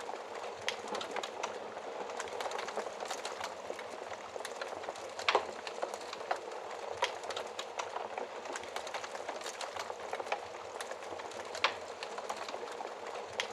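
Fireplace fire crackling steadily, with scattered sharp pops; the loudest pop comes about five seconds in.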